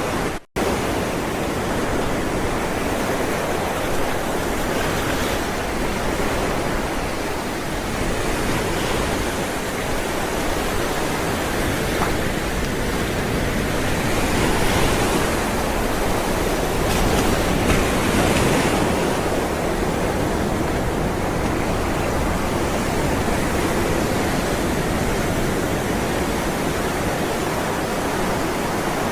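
Ocean surf: a steady rushing wash of rolling waves that swells a little twice past the middle, and cuts out for an instant about half a second in.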